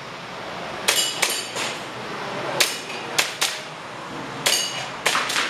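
Airsoft pistol firing a string of about nine shots in quick groups of two and three, sharp clacks, some with a short metallic ring.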